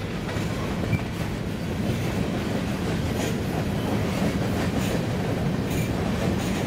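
Covered hopper cars of a potash freight train rolling past: a steady rumble and rattle of steel wheels on the rails.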